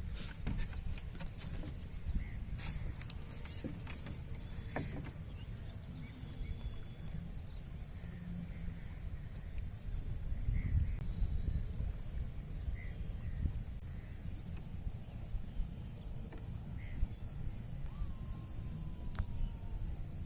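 Insects chirring in a steady, high, finely pulsing chorus over a low rumble, with a few sharp clicks in the first five seconds.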